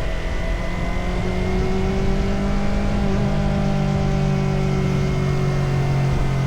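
Motorcycle engine running steadily under way, over a continuous rush of wind and road noise. Its pitch eases down a little in the second half.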